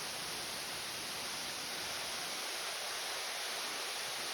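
Small spring-fed waterfall splashing into a pool, a steady even rush of falling water. The flow is light, as there has been little rain.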